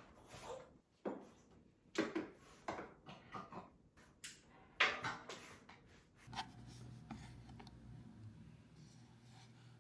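Objects being handled: a series of light knocks and rubbing scrapes over the first six seconds, then a faint steady low hum.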